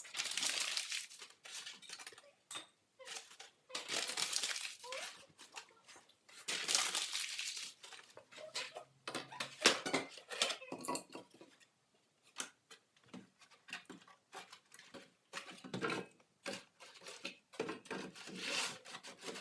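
Paper being crumpled and torn in bursts of rustling, with scattered sharp clicks and knocks of kindling and wood being handled while a fire is laid in a fireplace.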